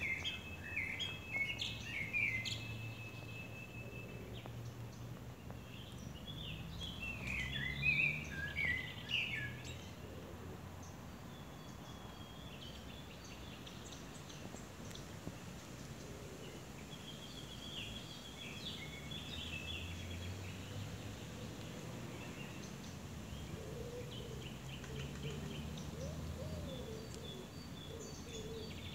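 Small birds chirping and singing in scattered bursts over a steady low background rumble, loudest in the first ten seconds.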